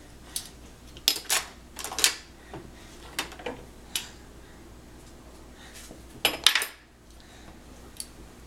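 Dishes and cutlery clinking and clattering as a dishwasher is unloaded by hand: a series of separate sharp knocks and rattles, bunched in a few clusters with pauses between.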